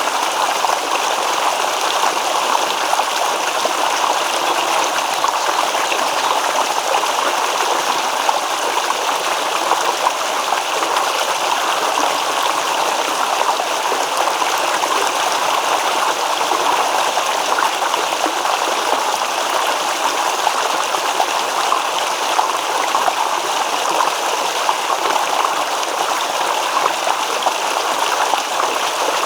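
Shallow stream babbling steadily over stones: a continuous rush of water with fine splashing and gurgling, even in level throughout.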